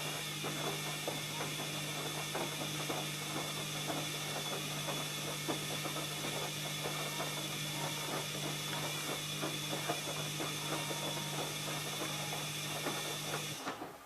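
ELIN A 100 E washing machine running: a steady motor hum with a continual patter of small irregular clicks and knocks, which cuts off near the end.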